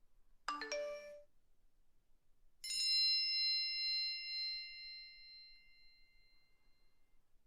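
Two phone alert tones: a quick run of short chiming notes, then about two seconds later a single bell-like ding that rings on and slowly fades.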